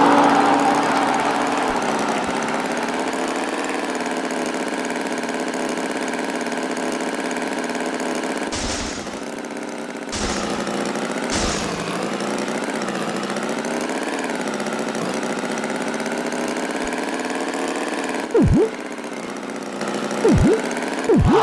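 Tractor engine running steadily, its pitch wavering slightly, with two short noisy bursts about nine and eleven seconds in.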